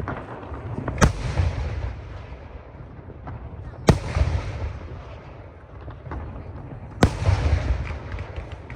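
Aerial firework shells bursting: three loud bangs about three seconds apart, each followed by a long rumbling echo, with a run of small crackles near the end.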